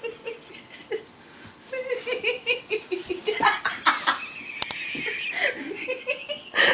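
People laughing: a run of short giggling pulses starting about two seconds in, with more breathy, higher-pitched laughter after.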